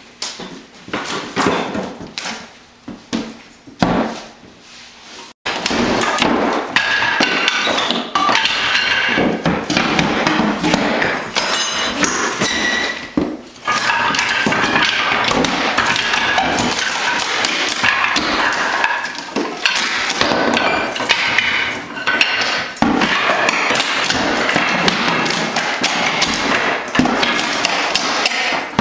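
Hammer blows and clatter from tearing up old hardwood floorboards. Scattered knocks at first, then, after an abrupt cut about five seconds in, dense, continuous banging.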